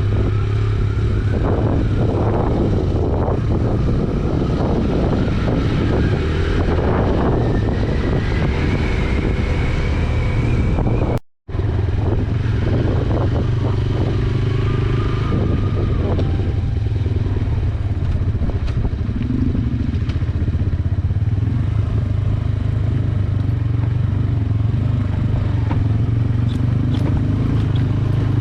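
Yamaha YBR125G single-cylinder four-stroke motorcycle engine running steadily under way, with wind noise over it. The sound drops out for an instant about eleven seconds in.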